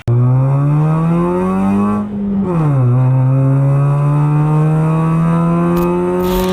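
Car engine accelerating hard. Its pitch climbs, falls sharply at a gear change about two and a half seconds in, then climbs steadily again in the next gear.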